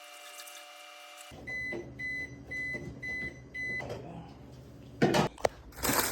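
Microwave oven running, cutting off about a second in, then beeping five times to signal the end of its cycle. Knocks about five seconds in, then rustling near the end.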